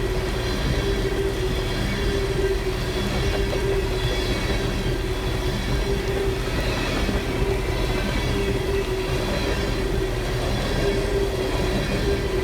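Long freight train of empty tank cars rolling past. The wheels on the rails make a steady rumble, with a steady tone held above it.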